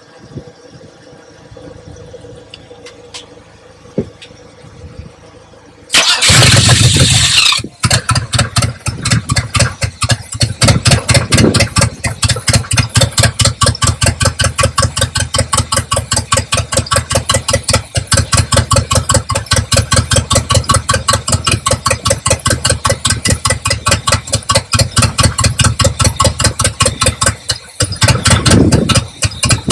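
1972 Buick Riviera's 455 V8 catching with a loud burst about six seconds in, then running at a pulsing idle, dipping briefly near the end and picking up again with a burst. It idles despite a fuel pump that the owner says is out.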